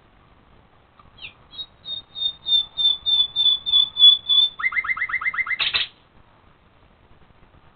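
A songbird singing at night: a steady series of about a dozen repeated high whistled notes, then a quick run of lower repeated notes, ending in one short loud note.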